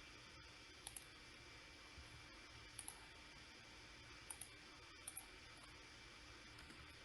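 Faint computer mouse double-clicks, four quick pairs of clicks a second or two apart over a low steady hiss.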